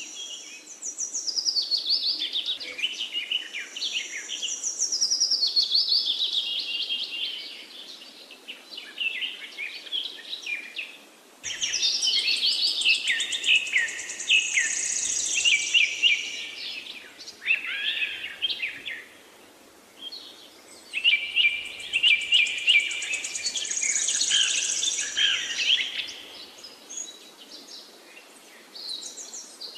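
Small birds chirping and twittering in busy bouts of several seconds, high-pitched with quick falling notes, broken by short lulls.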